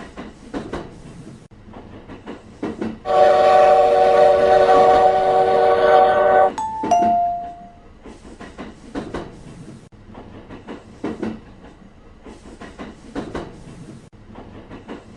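Train running with a steady rhythmic clatter of wheels over rail joints. About three seconds in, a loud horn of several notes sounds together for about three and a half seconds and cuts off, followed by two short, lower single tones.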